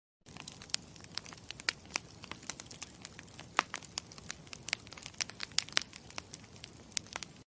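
Campfire crackling: a low steady rumble of burning wood with irregular sharp pops and snaps. It cuts in just after the start and stops abruptly near the end.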